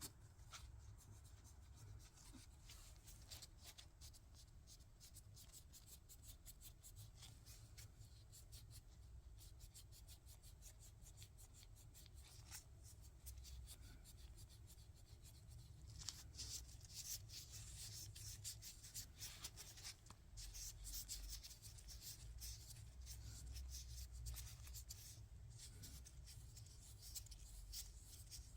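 Faint close-up scratching and rubbing with many small clicks, quick and irregular, growing busier about halfway through, over a low steady hum.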